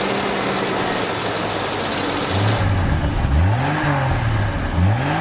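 A 1991 Jeep Cherokee XJ's 4.0-litre straight-six idles steadily, then is revved twice in the second half, each rev rising and falling in pitch.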